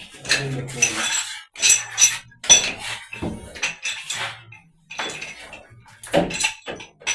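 Irregular metallic clinks and clatter of metal plumbing tools and fittings being handled and struck during shower installation, with a brief ringing after some strikes.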